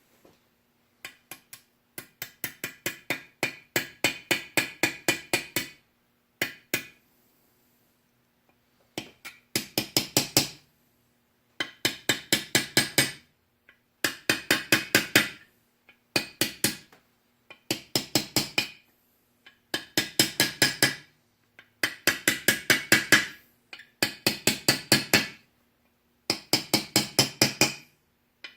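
Hammer tapping a roller bearing into its bore in a Sears Custom 6 garden tractor transaxle case. The taps come in quick runs of about five a second, each run lasting a second or two, with short pauses between runs.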